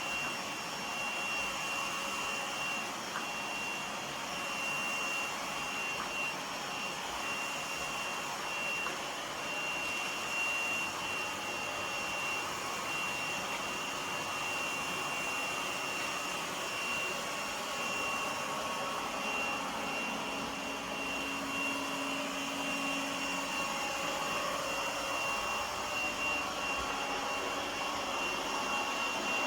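Lefant M1 robot vacuum running as it cleans: the steady whir of its suction fan with a thin, steady high whine over it.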